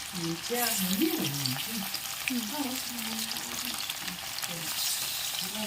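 Marinated fish pieces frying in hot oil in a kadhai, a steady sizzle throughout. A voice softly sings a tune over it at times.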